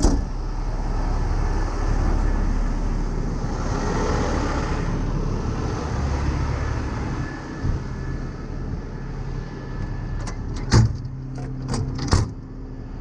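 Heavy truck engine idling with road traffic going by, one vehicle passing about four seconds in. A few sharp knocks come near the end.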